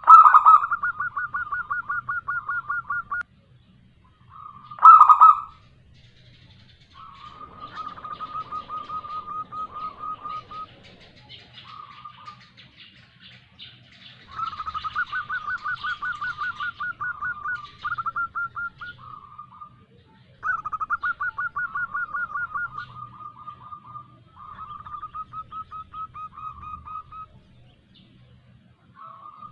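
Zebra dove calling: rapid rolling trills repeated in bouts of a few seconds with short gaps. This is a female's lure call, meant to draw replies from males. The opening bout and a brief burst about five seconds in are the loudest.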